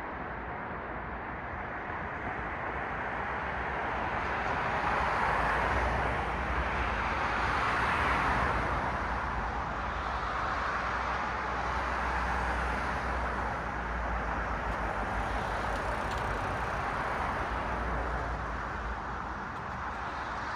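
Cars passing one after another on a city road, a steady rush of tyre and engine noise that swells and fades as each goes by, loudest about five and eight seconds in.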